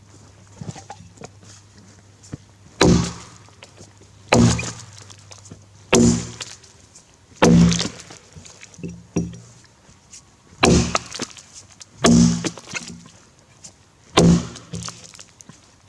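A Tassie pattern felling axe chopping into a Grey Gum log, seven strikes about a second and a half apart with a pause in the middle. Each blow lands with a sharp knock and a brief ring.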